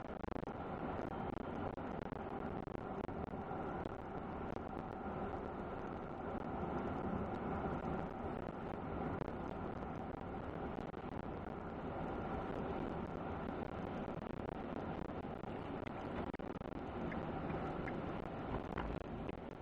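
A truck driving at highway speed, heard from inside the cab: steady road and engine noise, with a few faint ticks near the end.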